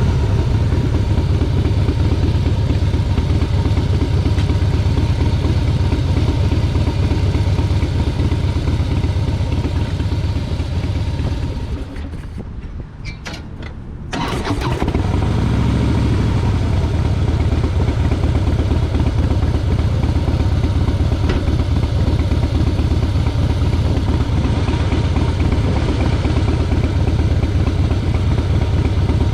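Motorcycle engine running while riding, with the sound falling away for about two seconds around the middle and then picking up again.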